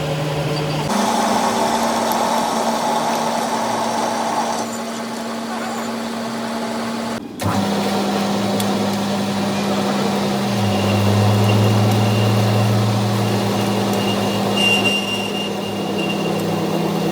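An engine running steadily at a constant pitch, with a brief break about seven seconds in.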